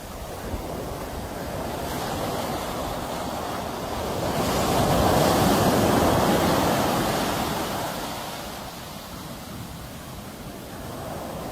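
Sea waves breaking on the shore: one wave swells up about four seconds in, peaks, and washes back out.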